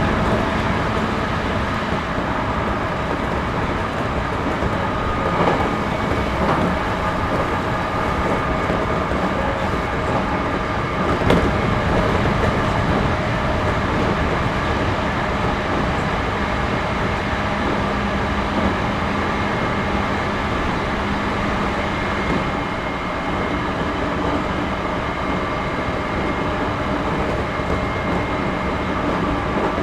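Series 211-5000 electric multiple unit train running at speed, heard inside the passenger car: a steady rumble of wheels and running gear with a few held tones, and one sharp knock about eleven seconds in.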